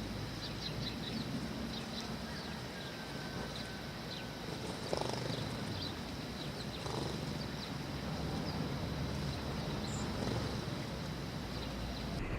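Sparrows chirping in short, scattered calls over a steady low outdoor rumble.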